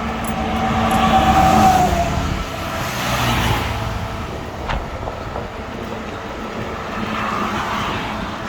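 Road traffic: a motor vehicle passes, loudest about one to two seconds in, over steady traffic noise.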